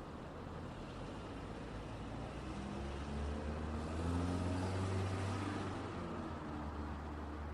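Road traffic with one vehicle passing close by. Its engine and tyre noise swells to a peak about halfway through, and the engine note drops in pitch as it goes past, then fades back into the steady hiss of traffic.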